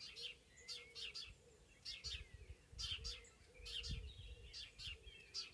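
Songbirds chirping in a spring forest, short bursts of high chirps repeating about once a second, over intermittent low rumbles.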